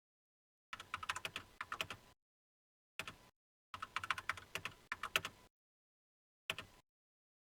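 Computer keyboard typing in four short bursts of rapid key clicks, with dead silence between the bursts.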